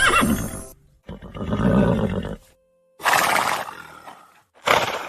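Horse neighing, a recorded animal-sound effect: a call with wavering pitch, then several more short separate calls.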